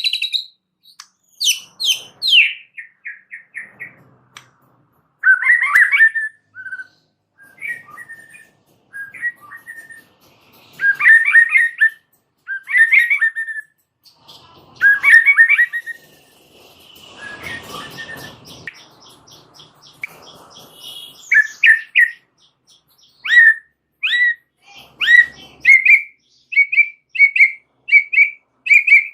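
White-rumped shama (murai batu) singing in short, varied whistled and chattering phrases with pauses between them. About halfway through comes a harsher, rasping phrase, and near the end a run of quick repeated chirps.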